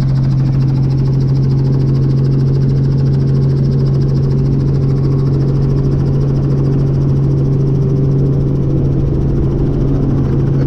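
Tour helicopter running, a loud, steady drone with a strong constant low hum.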